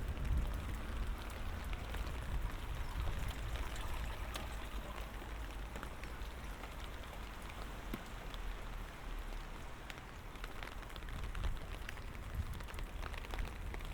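Light rain falling, a steady patter of many small drops ticking on surfaces around the listener.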